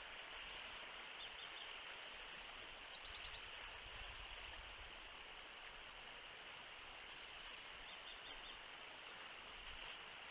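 Steady outdoor hiss of wind and microphone noise, with faint high bird chirps in short runs about a second in, around three seconds in and again near eight seconds. Low wind rumbles come through around four seconds in and near the end.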